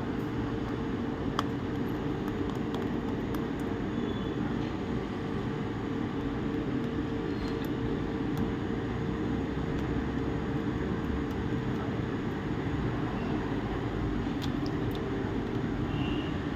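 A steady mechanical drone with a low held hum, like a fan or air conditioner running in the room. A few faint, light clicks come through over it.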